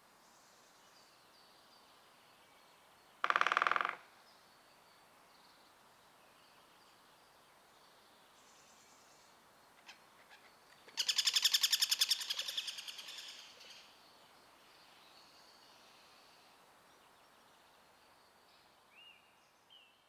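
Great spotted woodpecker drumming: a short roll about three seconds in, then a longer, louder roll about eleven seconds in that fades away. This is territorial drumming, a female holding her territory against a rival. Faint calls of other birds come near the end.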